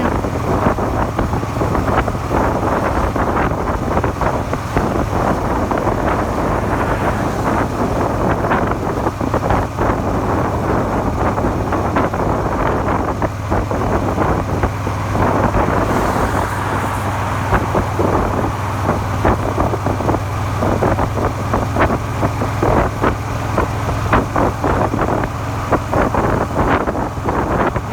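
Suzuki SV400's V-twin engine running steadily under way, with heavy wind noise on the microphone. The rider says this engine knocks after a makeshift crankshaft repair.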